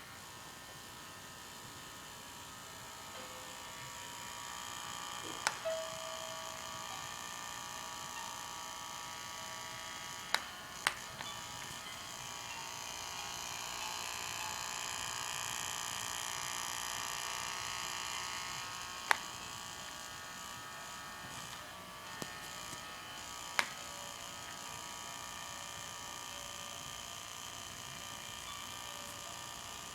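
TinyLove Sweet Island Dreams baby mobile's rotor motor running with a steady, buzzy, shaver-like whine, loud enough to drown out the mobile's lullaby: the noise the owner finds awful. A few sharp clicks sound now and then over it.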